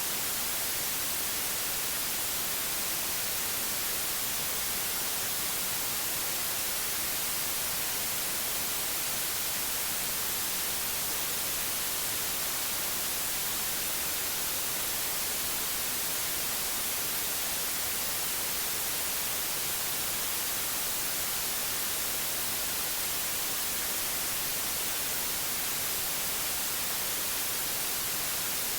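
Steady white noise: an even, unchanging hiss, strongest in the high frequencies, with no other sounds.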